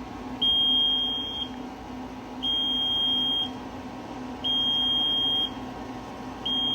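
Electronic beeping from a GQF egg incubator's controller while the egg turner runs in manual mode: a steady high beep about a second long, repeating every two seconds, four times, over a steady low hum.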